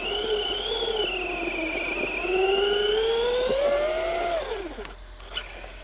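Electric motor of an RC car whining as it drives. The pitch rises, dips, then climbs steadily as the car speeds up, before falling away and fading out about five seconds in.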